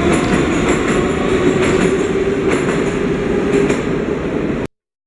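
Moscow metro train running on the rails: a steady loud rumble with a held hum and clicks of the wheels over rail joints. The sound cuts off suddenly near the end.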